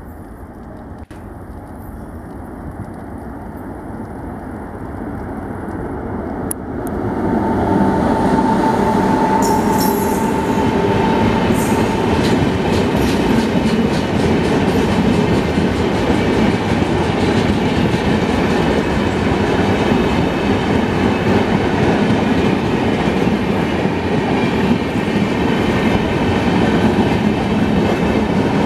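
A passenger train passing close by, its noise building over the first seven seconds, then a loud, steady rush of wheels on rail with clickety-clack for the rest, and a brief high whine about eight to eleven seconds in.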